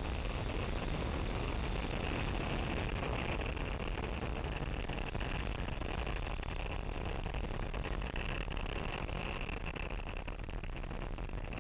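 Falcon 9 first stage's nine Merlin engines in ascent, heard as a steady, unbroken rumble that fades slightly near the end.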